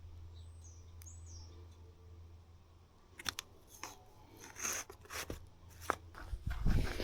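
Rustling and sharp handling clicks, starting about three seconds in, over a steady low hum, with a dull thump near the end. There are two short faint chirps near the start.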